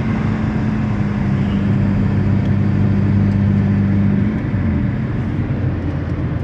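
Car driving along a road: steady engine hum and road noise, with the hum changing pitch about four seconds in.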